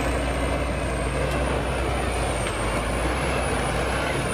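TDT-55 forestry tractor's diesel engine running steadily, with a thin high whine wavering slightly above the engine noise.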